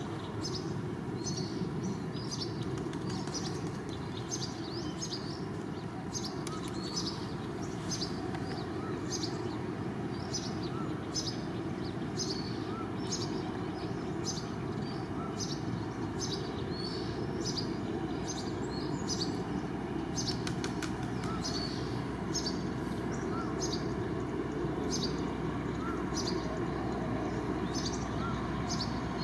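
Small birds chirping repeatedly in short, high notes over a steady low background rumble.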